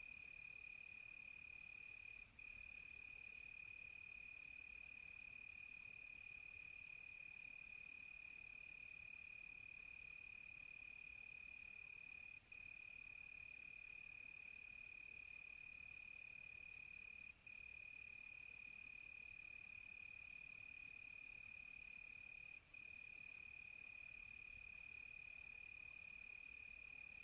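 Crickets trilling in one steady, unbroken high-pitched trill, faint, with a second, higher and faster-pulsing insect chirring over it from about a second in until roughly two-thirds through, when it gives way to a higher hiss.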